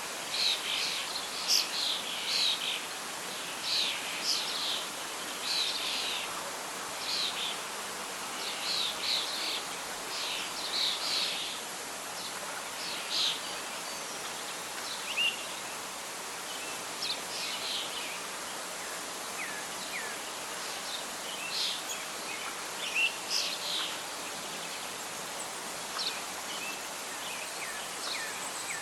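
Birds singing and calling over a steady hiss of soft wind. Short chirping phrases come every second or so at first, then thin out to scattered calls in the second half.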